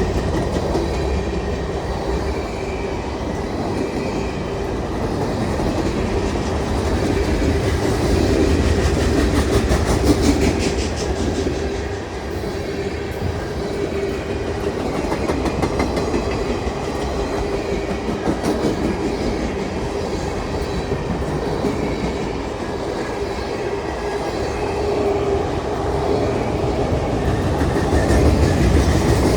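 Freight train rolling steadily past, wheels clattering over the rail joints, with a steady ringing tone running through it.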